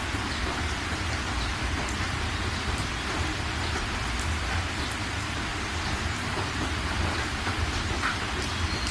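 Steady rain falling, with scattered drops ticking on a surface over a low, steady rumble.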